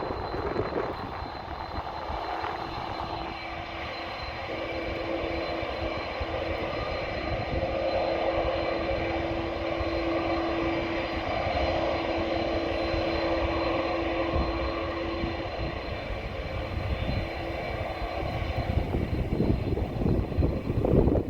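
Jet airliner engines on a departure: a steady rumble with a held hum, swelling for several seconds in the middle and then easing off.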